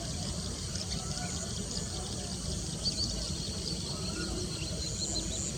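Outdoor ambience: a steady low rumble under many small high chirps from birds and insects, with a quick run of short high notes about three seconds in.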